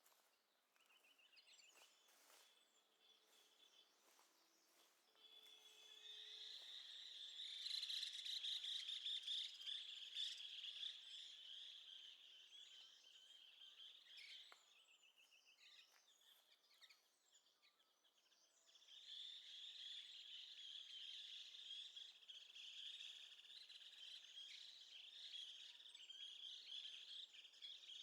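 Faint high-pitched chorus of chirping birds and buzzing insects, with short trills, swelling about six seconds in, dying down for a while, then rising again.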